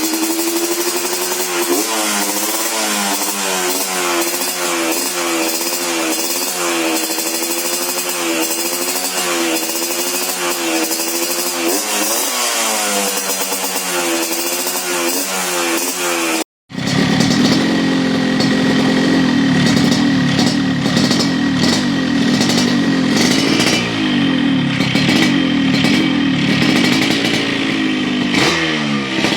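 Yamaha RX King two-stroke single-cylinder engine running through an aftermarket 'telo' racing exhaust, blipped again and again over idle. After a short cut about halfway, a second RX King with the same kind of exhaust idles at a lower, steadier pitch and is revved near the end.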